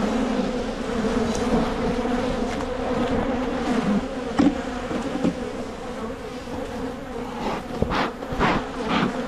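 A mass of honeybees buzzing around an open hive, a steady droning hum; the colony is agitated and defensive. Near the end a quick run of sharp knocks and scrapes cuts through the buzz.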